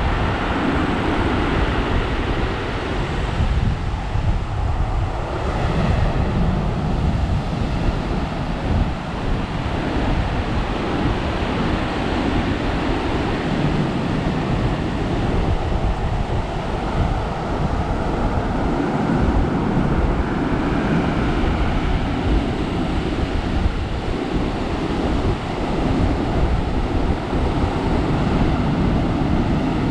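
Heavy post-typhoon surf breaking and surging up a gravel beach in a continuous wash that swells and eases, with wind buffeting the microphone.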